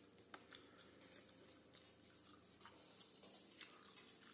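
Near silence, with a few faint, soft clicks scattered throughout.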